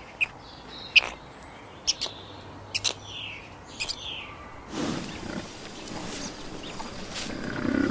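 Short, sharp, high-pitched animal calls, repeated about once a second, some sliding down in pitch. About two-thirds of the way through, the background turns to a noisier outdoor hiss and fainter calls continue.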